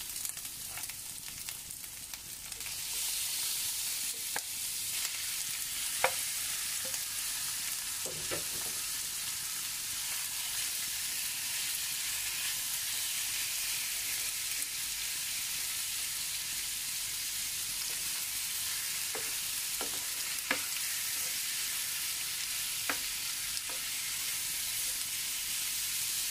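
Marinated lamb liver pieces and sliced onion sizzling in hot oil in a frying pan. The sizzle grows louder about three seconds in as the liver goes into the pan, then holds steady, with a few sharp clicks scattered through.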